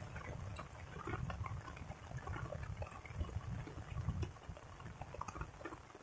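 Rain falling, with many scattered drop ticks over an uneven low rumble.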